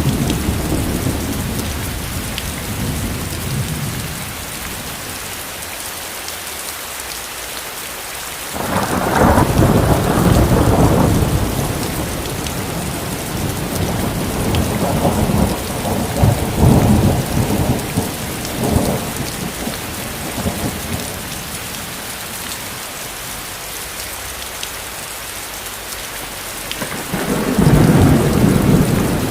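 Steady rain hissing, with rolls of thunder: a rumble starts suddenly about a third of the way in, more rumbling follows in the middle, and another swells up near the end.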